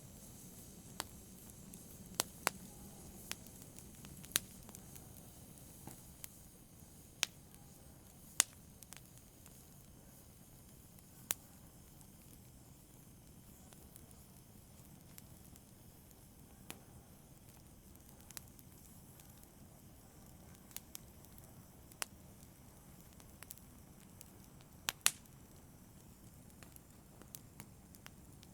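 Wood fire crackling in a fireplace: sharp, irregular pops every second or two, some louder than others, over a low steady hiss of burning.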